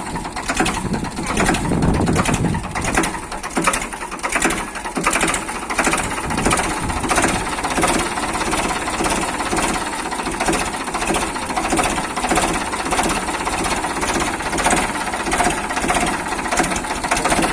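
Ford 3600 tractor's three-cylinder engine running, with a steady, even clatter and a heavier low note about two seconds in.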